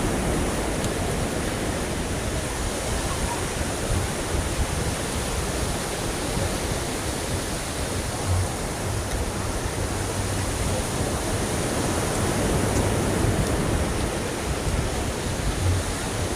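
Ocean waves, a steady rush of surf that swells slightly a few seconds before the end.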